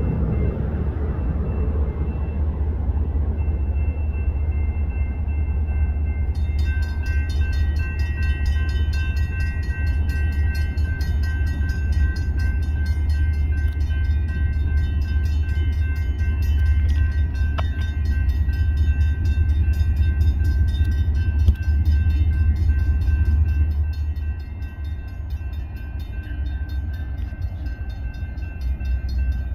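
Approaching diesel freight train's deep, steady rumble. From about six seconds in, grade-crossing warning bells ding in a steady rhythm over it.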